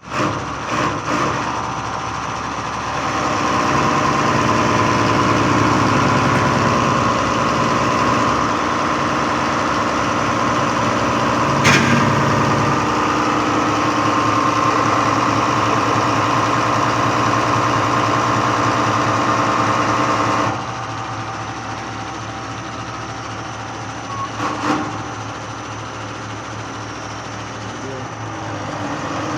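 Diesel pump running steadily while being checked. It gets louder a few seconds in, gives a sharp click near the middle, and drops back suddenly to a lower, steady run about two-thirds of the way through.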